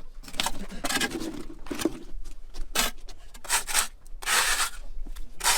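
Irregular rubbing and scraping strokes, about one or two a second, from cleaning out a bird enclosure.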